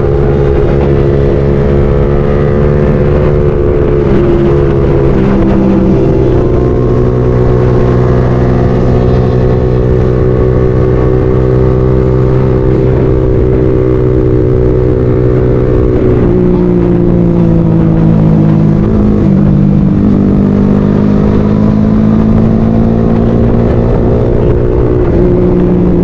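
Motorcycle engine running steadily while riding, its note holding for long stretches, then dropping and climbing again a few times in the second half as the throttle changes.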